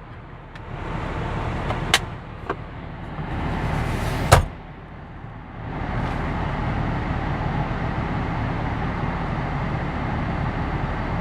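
Steady low hum and rushing of a running SUV's cabin, with a few sharp clicks from interior parts being handled, the loudest about four seconds in. The rushing grows louder and steadier about six seconds in.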